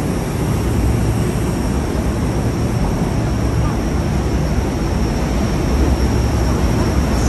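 Steady low rumble of a train running, heard from inside the car, with a faint steady high whine above it.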